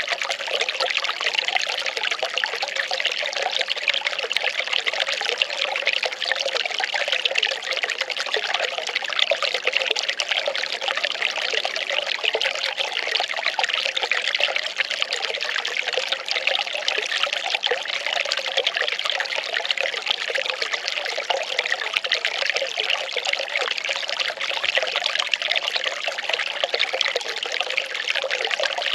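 Well water pouring and trickling steadily, an unbroken splashing flow.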